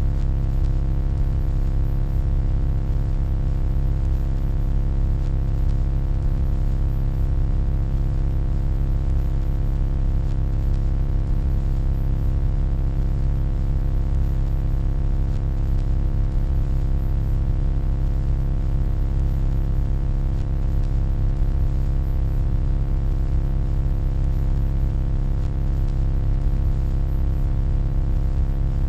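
Deep, steady electronic hum with a stack of fainter overtones above it and a light hiss over the top, never changing.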